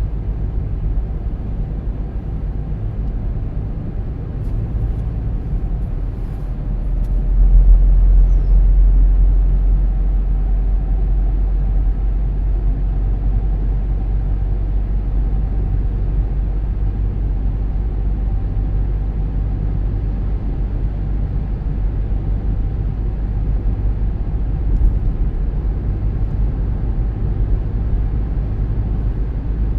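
A car driving along a road: a steady low rumble of engine and tyre noise, which swells about seven seconds in and stays at that level.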